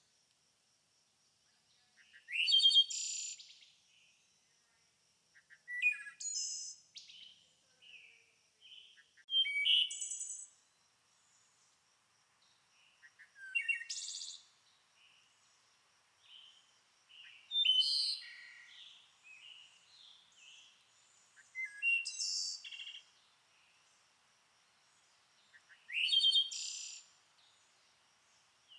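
Wild songbirds singing: one bird repeats a short, loud song phrase about every four seconds, with softer chirps and calls in between and a faint, even, high-pitched pulsing tone behind.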